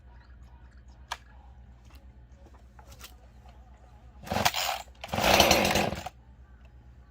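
Husqvarna 346 XP two-stroke chainsaw ticking over at idle, then revved twice about four and five seconds in; the second rev is louder and lasts about a second.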